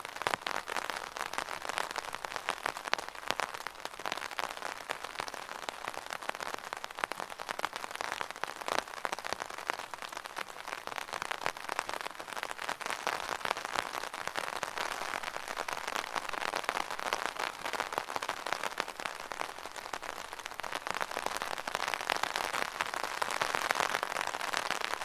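Raindrops pattering steadily on an umbrella's fabric canopy, a dense even patter of many small taps that swells a little near the end.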